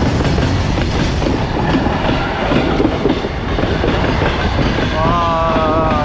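Goods train passing close by: a heavy rumble with the wagons' wheels clacking over the rail joints. A brief wavering high tone comes in about five seconds in.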